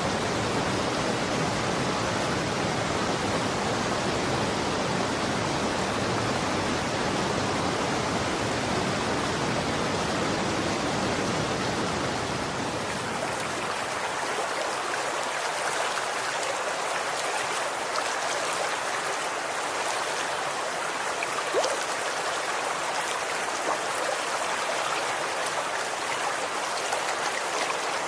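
Running water rushing and splashing steadily. About halfway through, the deep low rumble drops away and the sound becomes brighter and more splashy, with a few faint drip-like ticks.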